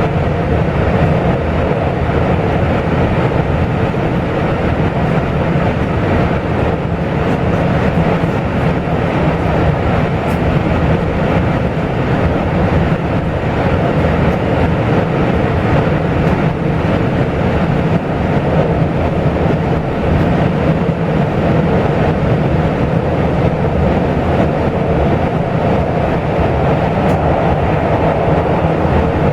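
Taiwan Railway local express train running: a steady, unbroken rumble of the moving train.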